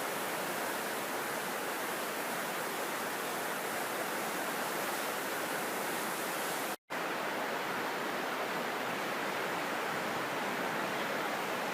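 Mountain stream rushing steadily, an even hiss of water. About seven seconds in the sound cuts out for an instant and comes back unchanged, like an edit.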